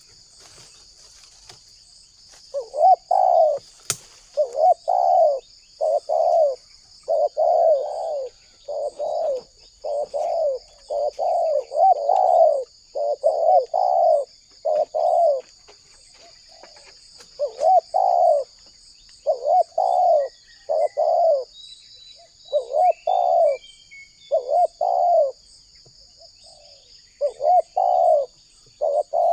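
Spotted dove (tekukur) cooing steadily, a long run of short, rounded coo notes in phrases with brief pauses, starting a couple of seconds in.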